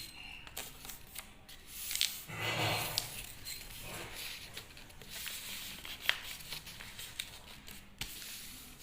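A rectangular sheet of paper being folded and creased by hand: rustling and crinkling with scattered sharp clicks, loudest about two and a half seconds in.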